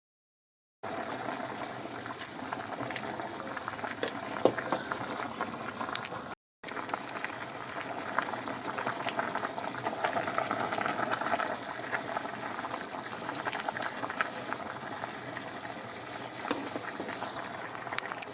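Liquid bubbling with many small crackles and pops, in two stretches split by a brief cut about six seconds in.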